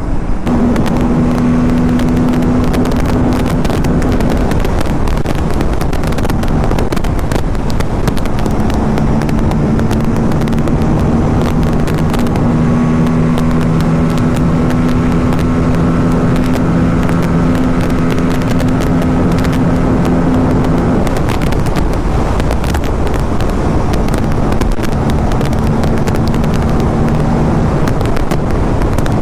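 Aprilia RS 457 parallel-twin motorcycle cruising at a steady highway speed, its engine a steady low drone under heavy wind rush on the rider's microphone. The engine note fades for a couple of seconds about two-thirds of the way in, then returns at an even pitch.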